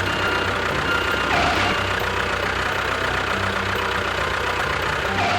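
Engine idling steadily with a knocking beat, cutting off suddenly at the end.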